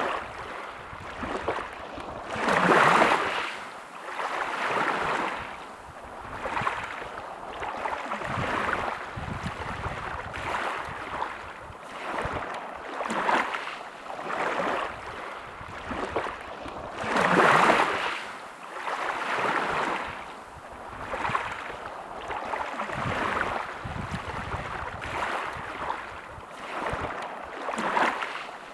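Small sea waves washing in and out on the shore, a soft surge of surf every second or two, with two bigger waves a few seconds in and just past halfway.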